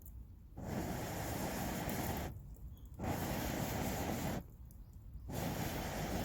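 Someone blowing onto a campfire in long, even breaths of air, each about one and a half to two seconds long with short pauses between them.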